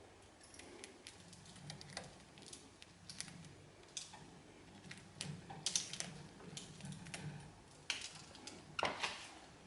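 Budgies pecking and gnawing at a hanging iodised mineral pek block: faint, irregular beak taps and scrapes, a little louder in a few clusters over the last few seconds.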